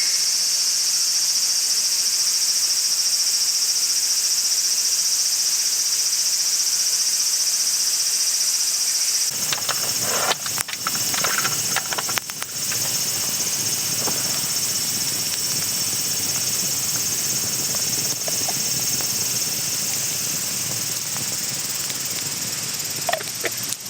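Insects trill steadily in a high band. About nine seconds in, this cuts off abruptly and is replaced by a steady hiss with a few clicks and knocks in the first few seconds.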